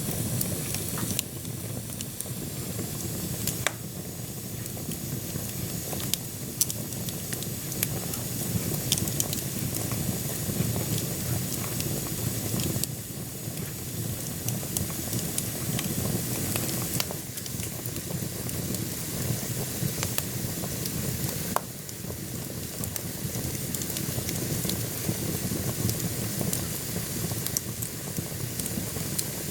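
Wood fire burning in a wood-burning stove: a steady low rumble and hiss of the flames with frequent sharp crackles and pops from the burning logs.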